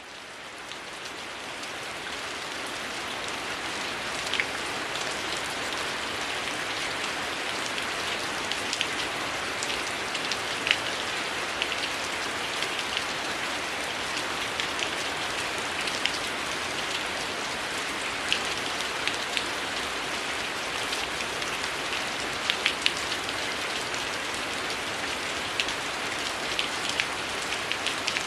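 Heavy rain falling steadily, fading in over the first few seconds, with scattered sharp crackles from a wood fire.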